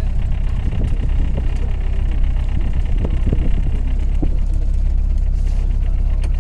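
A motorboat's engine running steadily under way, a deep, even drone.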